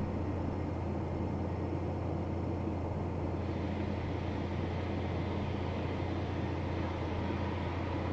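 Distant rush of a launch pad's top-deck deluge water system, over a steady low hum; the hissing of the water grows louder about three seconds in.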